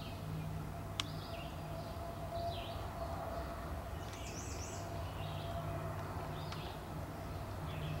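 Wild birds chirping in short, scattered calls over a steady low hum, with one sharp click about a second in.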